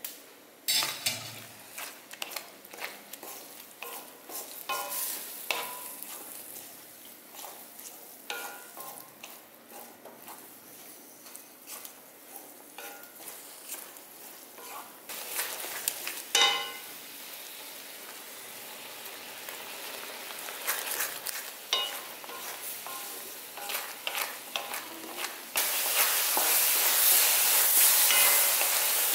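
Chana dal frying in a kadai, stirred with a spatula: a sizzle under repeated scrapes and taps of the spatula on the pan, with one louder knock partway through. Near the end a louder, steady sizzle sets in suddenly.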